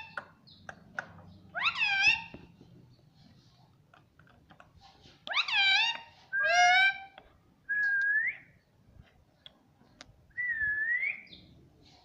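Pet ringneck parrot giving five short whistled calls with pauses between them. Each call glides in pitch, some dipping and then rising.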